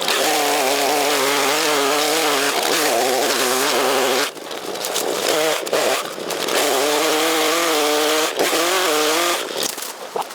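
Chainsaw engine running at high revs as it cuts: one long burst of about four seconds, a short drop to a lower, uneven note, then a second burst of about three seconds before it eases off near the end.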